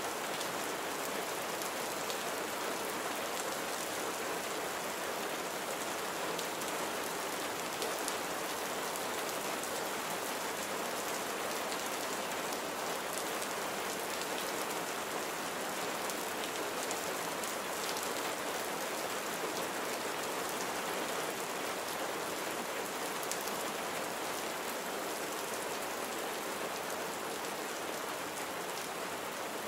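Steady rain falling on surfaces, with scattered drops ticking.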